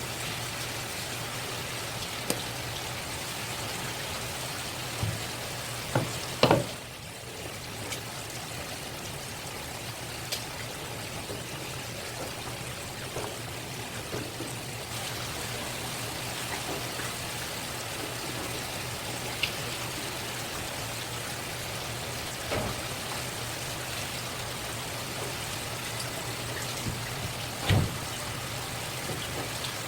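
Steady hiss of running water, like a tap left running while the fish is worked, over a faint low hum. A few short knocks stand out, the loudest about six seconds in and another near the end.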